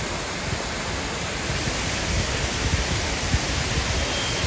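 Kiwai waterfall's water falling and splashing, a steady loud rushing noise.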